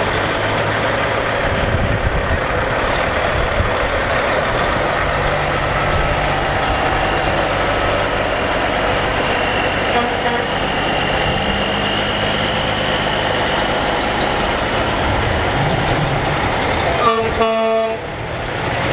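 Heavy trucks driving past in a steady stream with their diesel engines running, and a truck air horn sounded briefly near the end.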